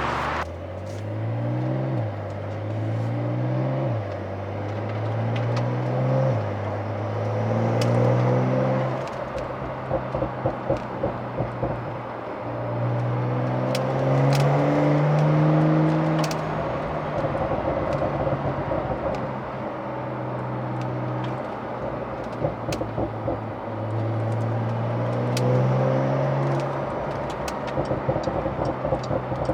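Porsche 911 (992) Carrera's twin-turbo flat-six accelerating through the gears, the pitch climbing and dropping back at each upshift, with rapid exhaust pops and crackles off the throttle about ten seconds in and again near the end: the sound of a pop-and-crackle ECU tune.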